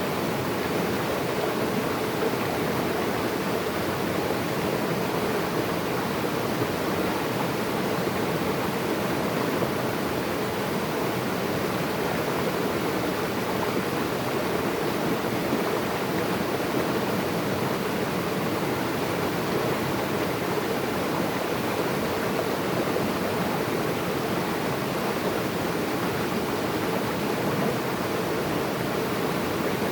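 Natural running water flowing steadily: a constant, even rush that does not change.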